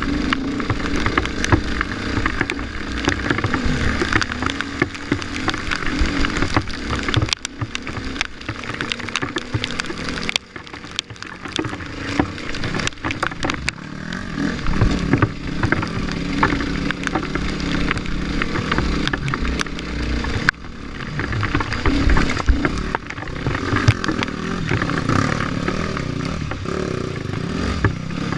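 Off-road motorcycle engine running through changing revs on a muddy trail, easing off about ten seconds in and picking up again a few seconds later, with many short clicks and knocks over it.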